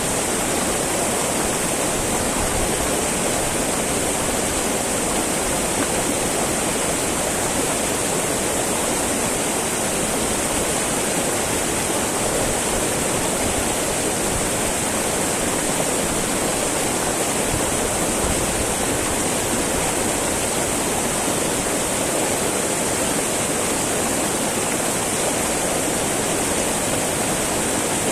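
Small mountain river babbling over rocks: steady rushing and splashing of flowing water.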